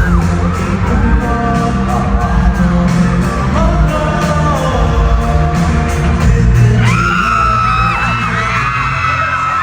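K-pop song with singing, played loud over a concert hall sound system, with heavy bass and a steady beat. From about seven seconds in, fans scream and whoop over the music.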